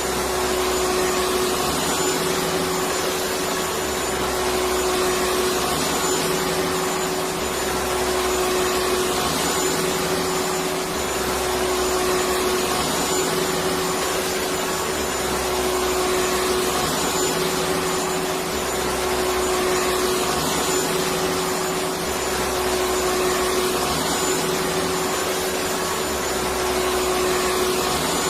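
Electric vacuum cleaner running steadily: a continuous rush of air with a steady motor whine. A low hum underneath comes and goes every couple of seconds.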